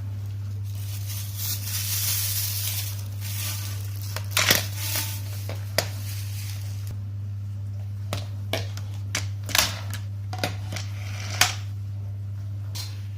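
Vacuum cleaner parts and packaging being handled: a few seconds of rustling, then a series of sharp clicks and knocks of hard plastic and metal pieces, over a steady low hum.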